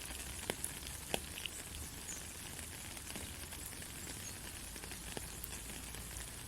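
Light rain falling steadily, an even hiss with a few single drops ticking sharply within the first second and a half.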